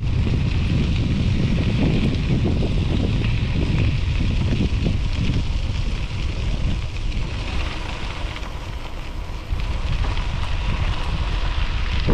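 Wind buffeting the microphone of a moving bicycle, a dense, gusting rumble, with the tyres running on a gravel trail beneath it. It eases a little about two-thirds of the way through, then picks up again.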